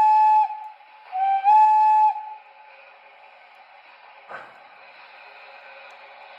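O scale model steam locomotive's electronic sound system blowing its steam whistle in two blasts, each bending slightly up in pitch as it opens: the first ends about half a second in, the second lasts about a second. Afterwards a steady low running noise continues, with a single click about four seconds in.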